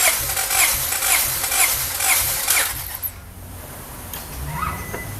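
Starter motor cranking the Honda B16 engine with its JUN 1.8L stroker kit, with no start, for a compression test on cylinder 1. A rhythmic pulse comes about twice a second as the cylinder compresses against the gauge, and the cranking stops about three seconds in.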